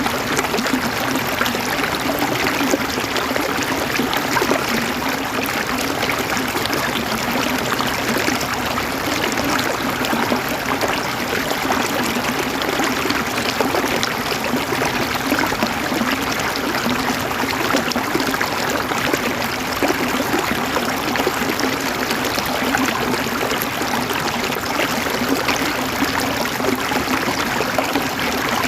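River water flowing and gurgling over stones, a steady unbroken rush.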